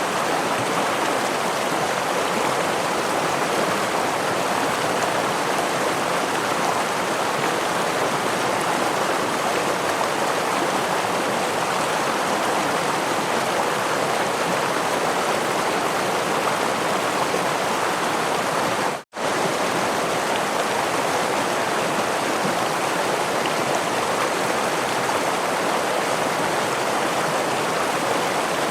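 Steady rush of a stream's running water, an even hiss with no distinct splashes. It cuts out for a split second about two-thirds of the way through, then resumes at the same level.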